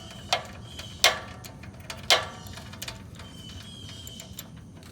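Socket ratchet clicking as it is worked on the mini bike's oil drain bolt: three sharp metallic clicks, about a second apart.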